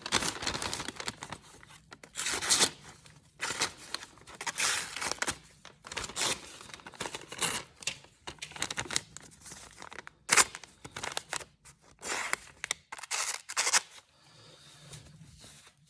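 Hand-made 1075 carbon steel knife slicing through paper in repeated strokes, about a dozen short cuts with brief pauses between, dying down over the last couple of seconds.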